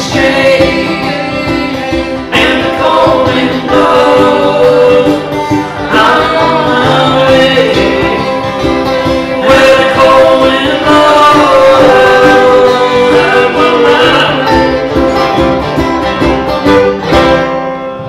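Live band playing and singing a song, loud and continuous.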